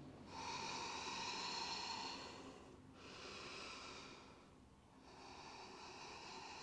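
A yoga teacher's slow, audible breathing: three long breaths in a row, each lasting a couple of seconds.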